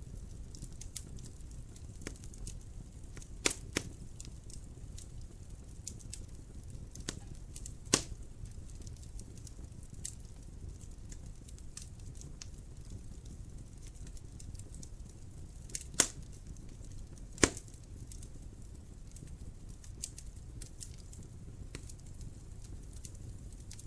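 Wood fire crackling in a fireplace: a steady low rumble of burning with scattered sharp pops, a few of them much louder.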